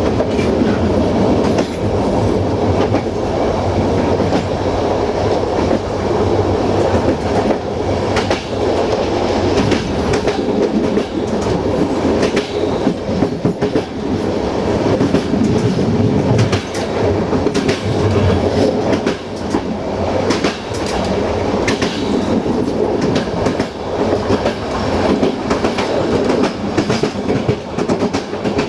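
Passenger train running at speed, its wheels rolling and clattering over the rail joints with a steady low rumble. Near the end the wheels cross the points of the station approach.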